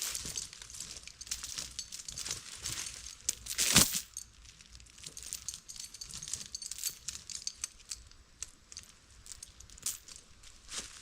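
Dry leaves and brush crackling and rustling in irregular short clicks, with one louder crunch about four seconds in.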